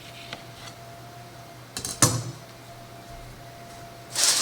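A metal cake pan knocks twice against the counter about two seconds in, over a faint steady appliance hum. Near the end, loud crinkling of aluminium foil begins.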